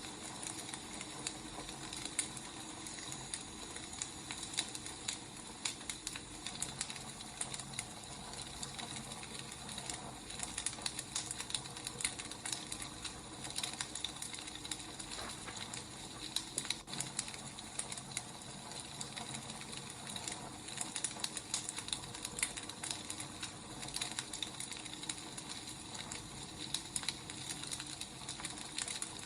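Wood fire burning, a steady hiss with irregular crackles and small pops from the logs.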